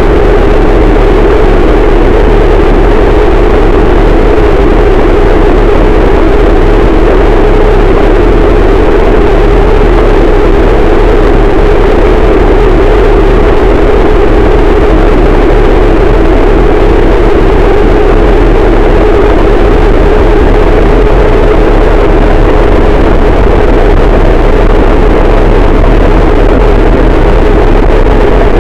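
Harsh noise wall: a dense, static wall of distorted noise at full loudness that does not change, heaviest in a low-middle band with a steady deep rumble beneath.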